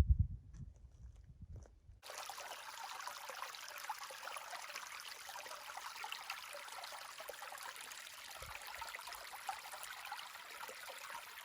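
Steady hiss of running water, starting abruptly about two seconds in; before it, low rumbling.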